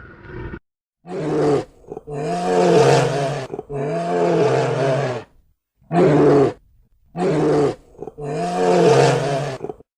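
A large animal calling loudly, six calls in a row of half a second to a second and a half each, separated by short silences.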